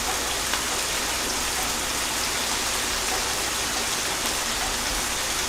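Steady gentle rain falling on a surface, an even hiss with a few faint drop ticks.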